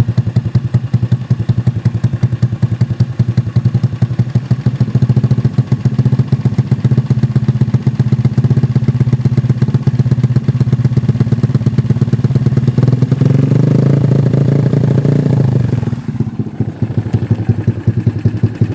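Suzuki Shogun 110R single-cylinder four-stroke, bored up to 55 mm with a 26 mm carburettor and aftermarket camshaft, idling with a steady, even beat through a CS Pro aftermarket exhaust. About 13 seconds in, the revs are held up slightly for a few seconds, then drop back to idle.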